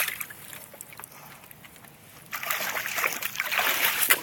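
Water sloshing and splashing, quiet at first and then louder and busier from about two seconds in.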